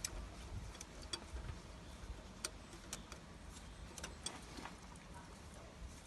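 A handful of light, sharp clicks and taps at irregular intervals over a faint low rumble, the clearest about two and a half and three seconds in and a small cluster around four seconds in.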